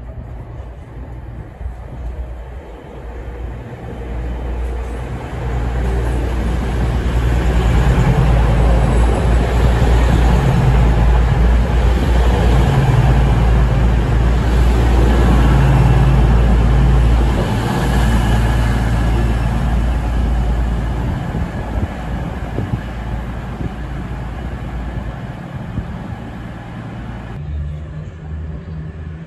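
A diesel passenger train running past close to the platform: a low engine rumble and wheel-on-rail noise that build up over several seconds, stay loud for about ten seconds, then fade away.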